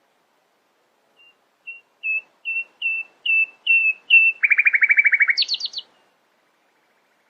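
A songbird singing one phrase: a series of about eight short falling notes that grow louder, then a fast trill, ending in a few quick higher notes.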